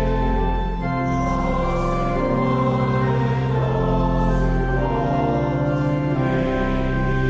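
Organ playing sustained chords with voices singing a hymn, the chords changing every second or two over a steady bass.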